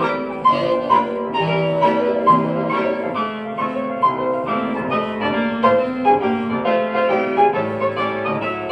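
A 1920s-style hot jazz band playing an instrumental chorus, with a steady beat of short pitched notes. It is played back from a lathe-cut 10-inch Lexan disc.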